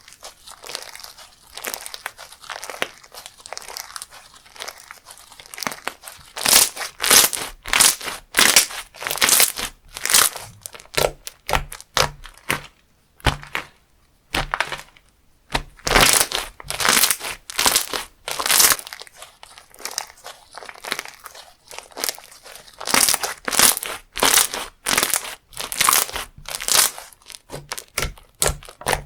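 Slime being squeezed, pressed and stretched by hand, giving crinkly, crackling pops in irregular bursts that come thick and loud after the first few seconds.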